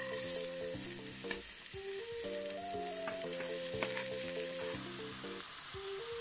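Chopped onions and red pepper sizzling loudly as they drop into hot oil in a frying pan, with a few light clicks of the knife and chopping board against the pan. A bouncy background tune plays underneath.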